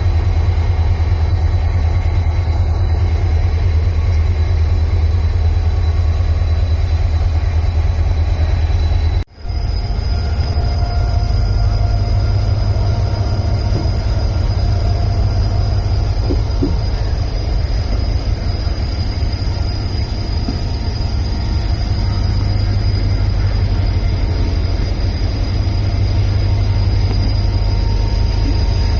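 Passenger train running on the track: a steady, loud low rumble of the coaches and wheels. The sound drops out for an instant about nine seconds in.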